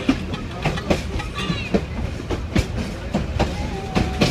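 Ferrocarril Central Andino train rolling along the track: a steady low rumble broken by irregular sharp clacks of the wheels over rail joints. A faint thin whine comes in during the last second.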